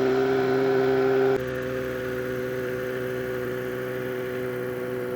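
A steady engine hum, one even pitch with overtones, that drops suddenly in loudness about a second and a half in.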